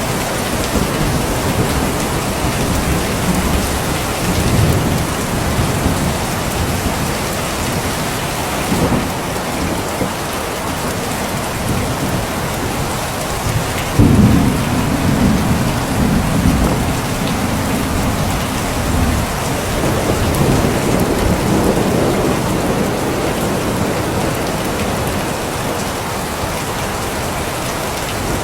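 Steady heavy rain with thunder. A sharp clap of thunder comes about halfway through and rolls on as a low rumble for about five seconds, with fainter rumbles earlier.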